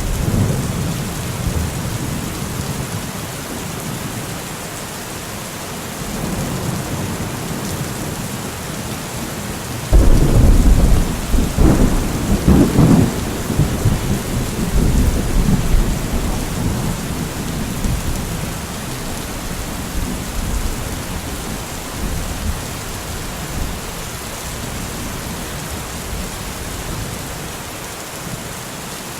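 Steady heavy rain falling, with thunder rumbling: a rumble trailing off at the start, and about a third of the way in a sudden loud clap that rolls on for several seconds before fading back into the rain.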